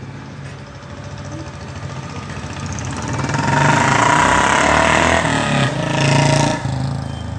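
A motor vehicle's engine running close by, getting louder over a few seconds and easing off near the end, over street traffic.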